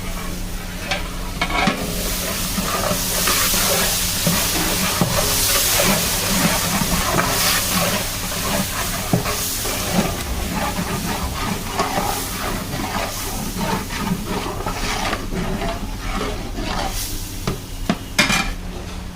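Chicken and masala sizzling as they fry in a large biryani pot, stirred with a metal ladle that scrapes the pot in irregular strokes. A steady low hum runs underneath.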